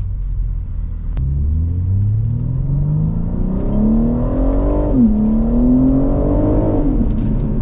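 BMW G80 M3's twin-turbo straight-six, fitted with a single midpipe, pulling hard through an underpass. The exhaust note climbs steadily, drops sharply at an upshift about five seconds in, climbs again, then falls away near the end.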